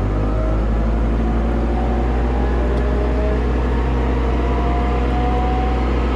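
Excavator diesel engine running at full throttle, driving a hydraulic forestry mulcher head as it spools up, with a faint, slowly rising whine over the steady engine drone.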